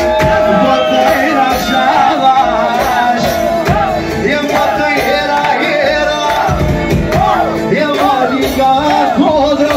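Folk band music with a steady beat under a lead melody that wavers and bends in quick ornaments, between sung verses.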